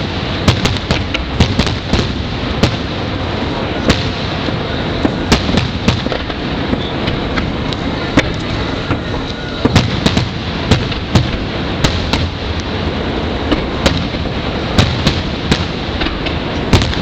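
Fireworks finale: a dense, continuous barrage of aerial shell bursts, several sharp bangs a second over a steady rumble of booms.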